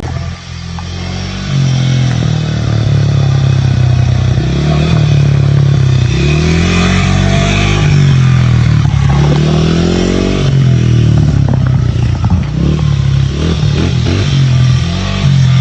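Dirt bike engine running while being ridden, its pitch rising and falling repeatedly as the throttle is opened and closed. It gets louder about a second and a half in.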